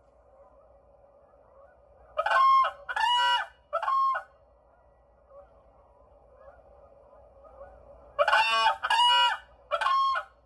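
A goose honking in two runs of three loud honks each, with a pause of about four seconds between the runs.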